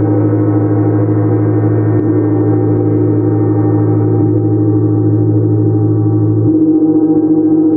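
Gongs ringing in a sustained, dense wash of overlapping tones over a deep hum, played without pause during a gong sound-healing session. The mix of tones shifts about six and a half seconds in.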